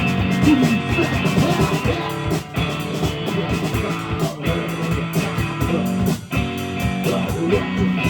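Live rock band playing an instrumental passage: guitar over a drum kit keeping a steady beat.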